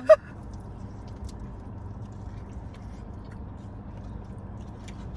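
A person quietly chewing a bite of bacon cheeseburger pizza, with a few faint clicks over a steady background hum.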